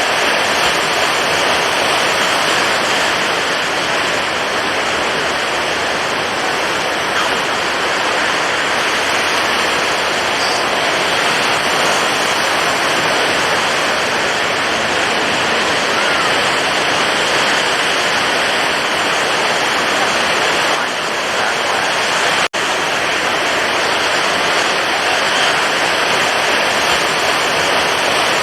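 Stormy ocean waves and heavy surf making a loud, continuous rushing wash of water. A split-second dropout breaks it about three-quarters of the way through.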